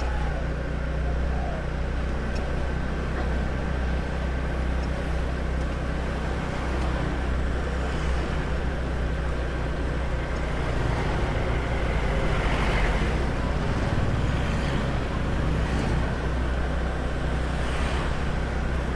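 Small motor scooter running steadily on the move, its low engine hum mixed with road and traffic noise. The noise swells briefly about two-thirds of the way through.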